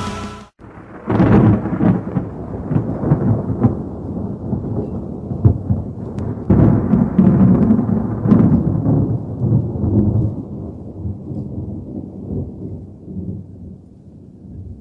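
Rolling thunder: a deep rumble with crackles that starts suddenly about half a second in and slowly dies away.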